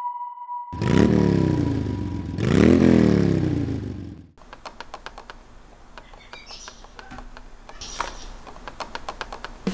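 Motorcycle engine revved twice, each blip rising sharply and then dying away. It cuts off abruptly about four seconds in, leaving only faint rapid ticking.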